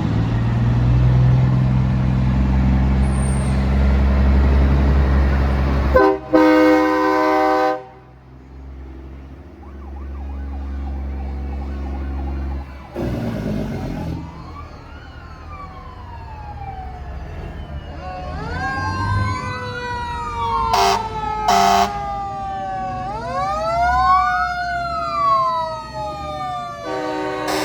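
Diesel truck engines rumbling as trucks pass, then a loud two-second air horn blast about six seconds in and a shorter blast later. From about halfway on, several sirens wail up and down over one another, with short horn blasts mixed in.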